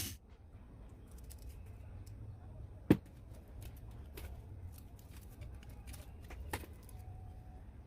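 Scattered light clicks and taps of handling, with a sharp click about three seconds in and a smaller one about six and a half seconds in, over a faint low hum.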